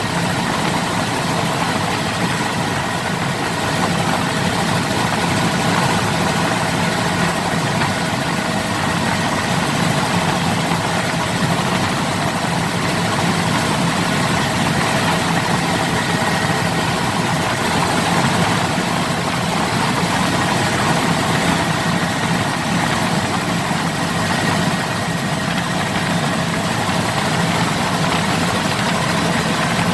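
Helicopter engine and rotor running steadily: a loud, constant drone with steady whining tones that hold level throughout.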